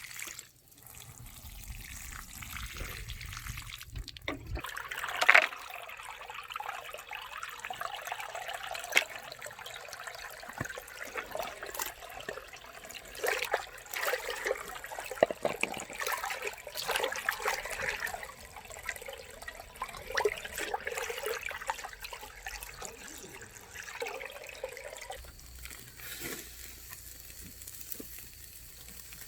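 Running water splashing, with occasional sharp knocks and clinks, the loudest about five seconds in.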